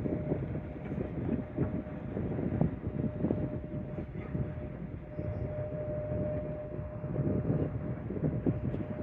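Aircraft engines running: a continuous low rumble with a steady whine held throughout.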